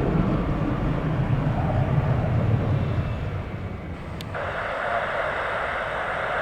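Low rumble of jet airliner engines, fading over the first few seconds. About four seconds in, a click, then steady radio static from the air traffic control feed as a channel opens.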